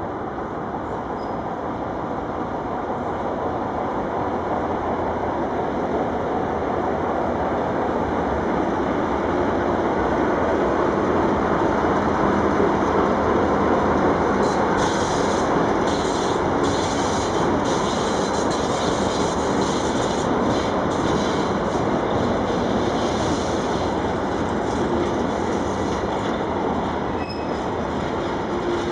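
A freight train rolling past, its wagons making a steady rolling rumble on the rails that builds over the first dozen seconds. Between about fifteen and twenty-two seconds in there are short, high-pitched bursts of wheel-on-rail noise.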